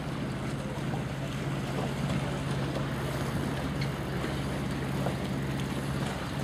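Strong wind blowing over the microphone, a steady rushing noise with a constant low hum underneath.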